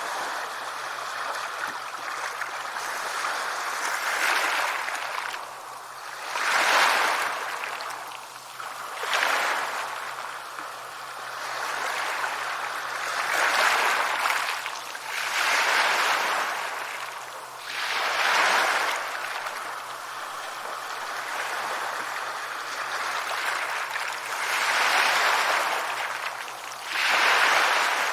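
Sea waves breaking and washing up a beach: a steady rush of surf that swells into a loud wash every two to three seconds and falls back between.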